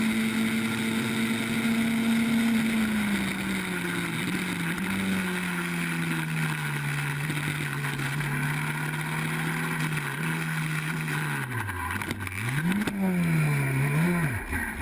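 Racing car engine running at steady revs, its note sagging slightly early on and holding. Near the end the revs drop and climb back up twice.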